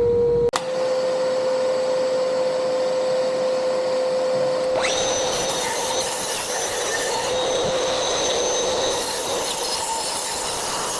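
An electric power tool's motor running steadily with a constant whine. About five seconds in, a louder hissing, scraping noise joins it and carries on almost to the end.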